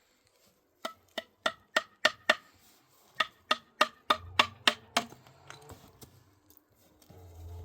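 Hammer blows, sharp ringing knocks at about four a second, in two runs of six and seven strikes with a short pause between.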